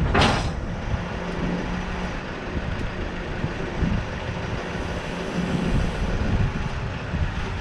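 Diesel engine of a Case 5-ton mini excavator running steadily at a low speed, with a short whoosh just after the start.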